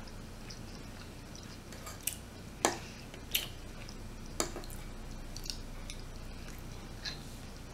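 Faint, close-miked chewing of firecracker shrimp, with about five short, sharp mouth clicks spaced through it.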